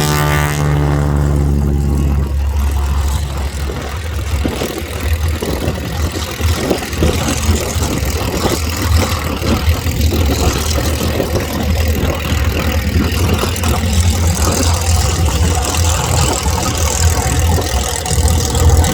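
Harvard trainer's radial engine at takeoff power, its even droning tone fading away after about two to three seconds. A loud, uneven low rumble of engine noise and wind buffeting the microphone follows.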